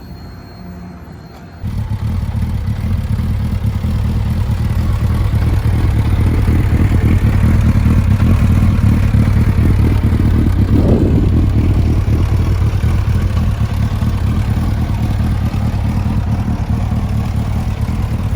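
2004 Suzuki Hayabusa's inline-four engine, fitted with a Yoshimura exhaust, starting up about two seconds in and then idling steadily.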